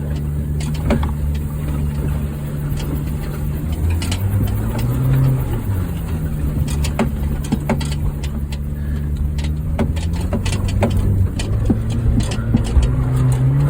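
Honda Fit's four-cylinder engine running under load on a steep dirt hill climb, its speed rising and falling twice, with frequent sharp knocks and rattles from the car over rough ground.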